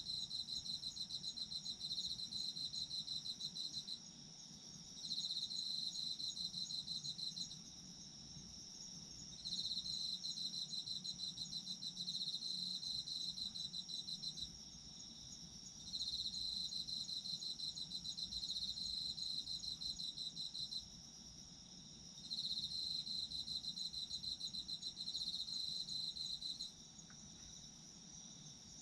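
Autumn crickets singing: one gives rapid pulsed chirping in bouts of a few seconds with short pauses between them, over another insect's continuous high trill.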